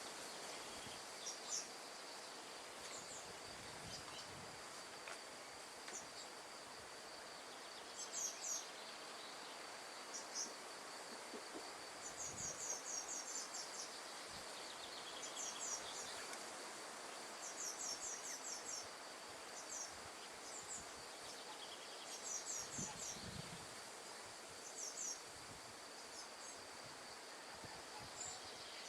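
Outdoor nature ambience: a steady high insect drone, with short high chirping trills every second or two over a soft, even hiss.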